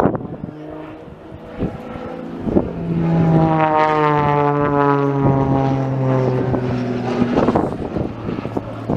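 Propeller aircraft flying past: its engine and propeller drone gets louder about three seconds in, then falls steadily in pitch as it goes by.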